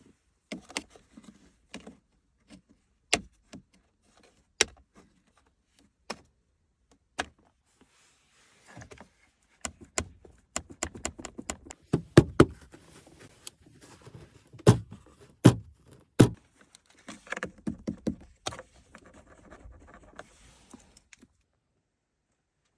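Scattered clicks, taps and knocks of hard plastic interior trim being handled around a BMW F87 M2's centre-console cup holder. They are sparse at first, come thick and fast in the middle, and stop shortly before the end.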